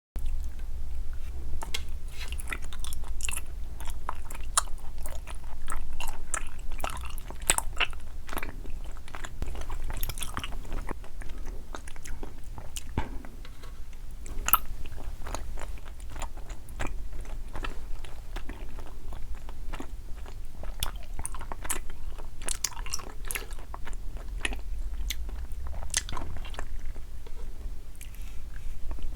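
Close-miked eating of jelly candies and chocolate balls: repeated bites and chewing with many sharp, irregular crunches.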